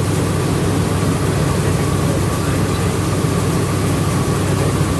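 Rice milling machinery running steadily: a loud, continuous mechanical drone with a faint steady whine over it.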